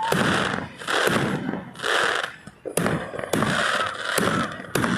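Fireworks going off: patches of crackling, with several sharp bangs in the second half.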